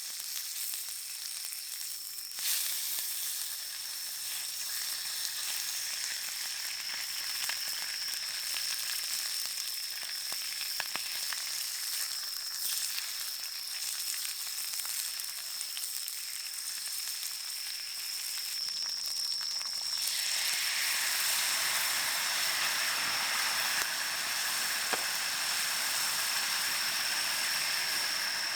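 Food sizzling on a hot iron griddle over a campfire, growing louder about twenty seconds in. A steady high-pitched cicada chorus drones behind it.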